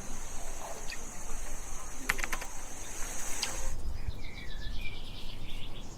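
Outdoor ambience: a steady high-pitched hiss that cuts off about two-thirds of the way through, short bird chirps in the latter part, and a low rumble underneath.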